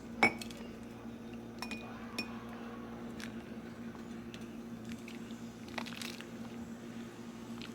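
Kitchenware clinking: one sharp, ringing clink just after the start, a few lighter clinks a second or two later, and a short scrape near the end, over a steady low hum.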